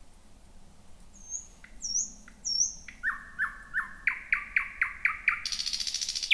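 Thrush nightingale singing one song phrase. A few high whistled notes come first, then a series of repeated downward-sliding notes that speed up to about four or five a second, ending in a dry, harsh rattle.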